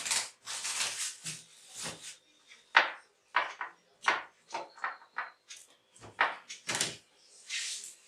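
A string of short, irregular rustles, scrapes and knocks of things being handled, with a faint thin high note about four seconds in that lasts about a second.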